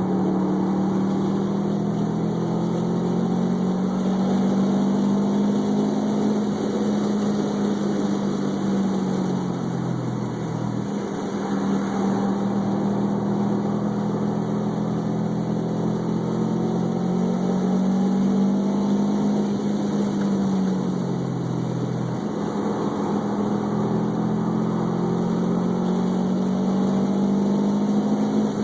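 Car engine running hard at steady revs during track laps; twice, about ten and twenty-one seconds in, the engine note sinks as the revs drop, then jumps back up as the car accelerates again.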